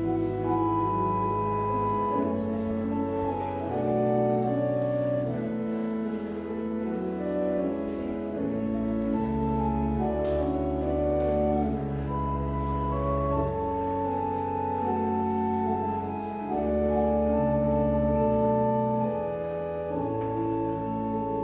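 Organ playing a slow postlude: sustained chords moving over long held bass notes.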